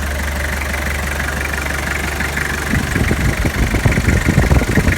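A 2002 Toyota Hilux's engine idling steadily. A little under three seconds in, an irregular knocking rattle starts over it: the noise the owner traced to a pulley in the belt drive whose bearing had burst and seized, not to the power-steering pump.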